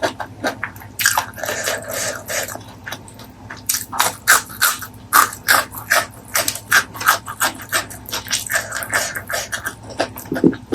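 Close-miked eating sounds: wet chewing and lip smacking, with many short, sharp mouth clicks, several a second.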